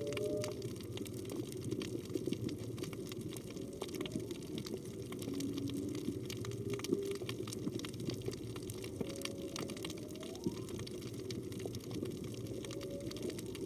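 Whale calls heard underwater, which the recordist takes for a humpback whale's: a series of faint moans and upward-gliding whoops, some held steady and some rising, over a steady rush of water and a constant crackle of sharp clicks.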